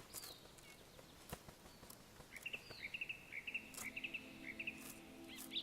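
Faint forest ambience with small birds chirping in quick little series from about the middle on, and a few sharp clicks. A low held music tone fades in during the second half.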